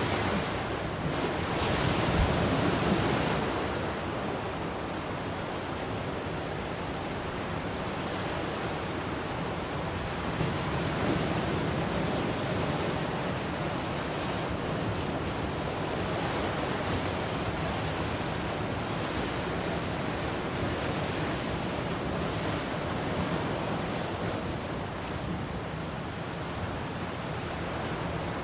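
Ocean waves washing on the shore, a steady surf with a louder wave breaking about two seconds in and smaller swells later.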